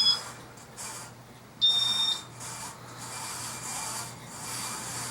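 Casablanca Montclair ceiling fan running with a rasping rub from its worn bearings, which the owner has not yet fixed. About one and a half seconds in, a short two-tone electronic beep sounds for about half a second.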